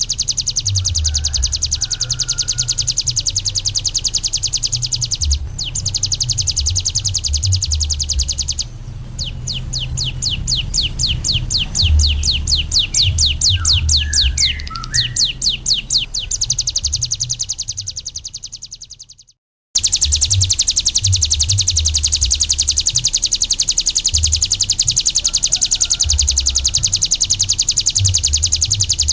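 A ciblek gunung, a small prinia songbird, sings a continuous, very rapid, high trill. In the middle there is a run of fast repeated sweeping notes. The song cuts out abruptly for a moment about two-thirds of the way through and then starts again. Uneven low rumbling thumps run underneath.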